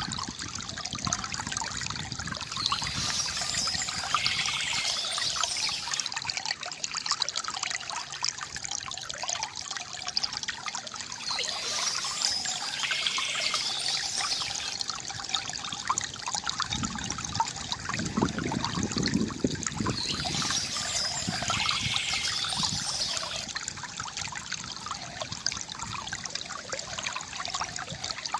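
Water from a bamboo fountain trickling and gurgling steadily, with a fuller, deeper splash for a few seconds past the middle.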